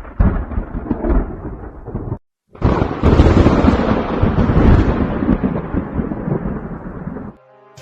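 Thunder rumbling in two claps: a first roll cuts off abruptly, then after a short gap a louder, longer roll slowly fades before it too is cut off sharply.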